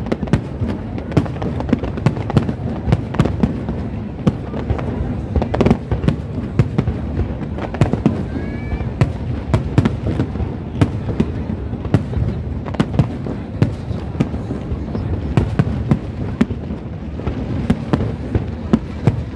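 Aerial fireworks display: shells bursting in quick succession, many sharp bangs and cracks over a steady low rumble.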